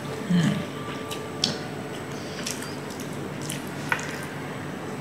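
A person eating saucy food with his fingers: soft wet chewing and mouth sounds, with a short hummed 'mm' just after the start and a few faint clicks later on.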